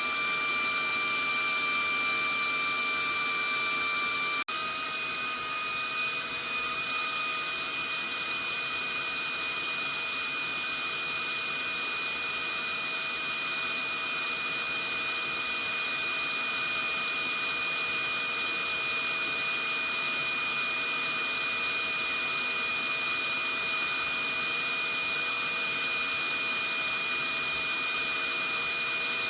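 Vacuum cleaner motor running steadily: a hiss with a constant whine on top. About four seconds in it cuts out for an instant, then carries on at a slightly higher pitch and a little louder for several seconds before settling.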